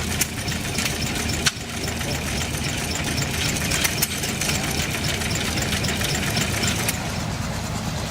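Hit-and-miss stationary engines running, a steady low chugging with irregular popping and clicking. The loudest is a sharp pop about one and a half seconds in, and the high clicking and hiss thin out near the end.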